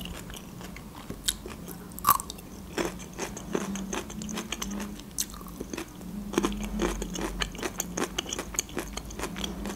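Close-miked chewing of food, with many sharp, irregular wet clicks from the mouth.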